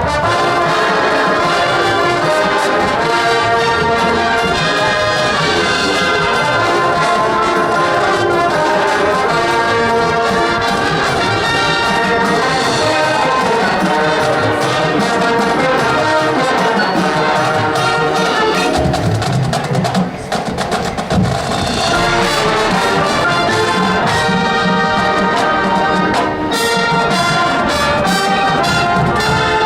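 Marching band playing: trumpets, trombones and other brass over percussion, loud and steady, with a brief drop about two-thirds of the way through.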